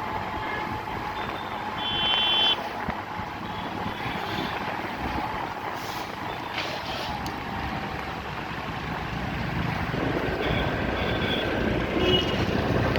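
Steady road traffic noise heard while riding through town streets, with a short high-pitched vehicle horn beep about two seconds in and a few more brief beeps near the end.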